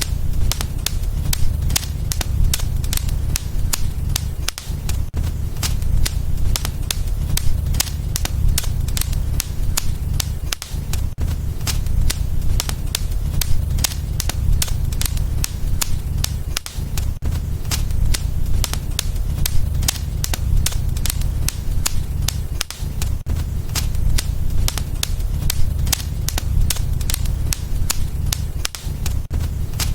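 Wood fire burning in a fireplace, crackling with dense sharp pops and snaps over a steady low rumble.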